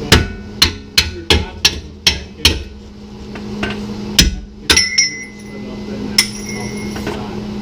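Hammer striking metal: a quick run of about three blows a second, then a few scattered strikes, two of which leave a ringing metallic tone. A steady low hum runs underneath.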